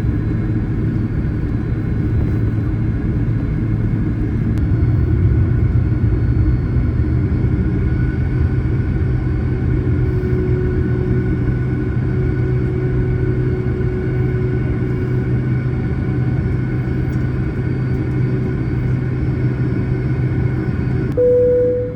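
Jet airliner engines heard from inside the cabin on the ground before takeoff: a steady low rumble with a faint whine. Near the end the rumble drops and a short steady tone sounds.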